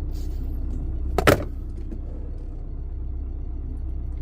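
A steady low vehicle engine rumble, with one loud sharp knock about a second in.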